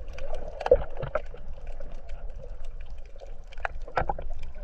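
Water moving and sloshing, with many scattered clicks and crackles over a low rumble.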